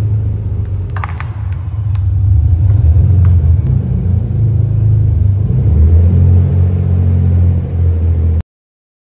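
Nissan 300ZX's naturally aspirated V6 engine running steadily with a low, deep exhaust note that gets louder about two seconds in. It cuts off abruptly near the end.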